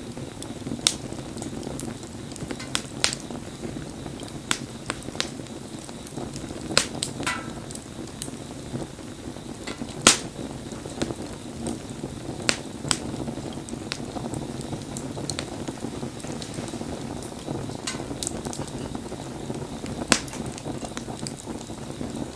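Wood bonfire burning: a steady low rush of flame with irregular sharp crackles and pops, the loudest about ten seconds in. A brief thin whistle about seven seconds in.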